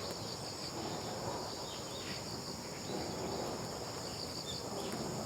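Insects trilling steadily in one continuous high-pitched note, with a few faint bird chirps over a soft outdoor background hiss.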